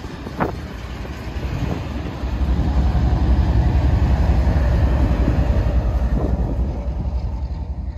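Double-stack intermodal freight cars rolling past on steel wheels: a steady low rumble with one sharp clack about half a second in, the rumble growing louder from about two seconds in and easing slightly near the end.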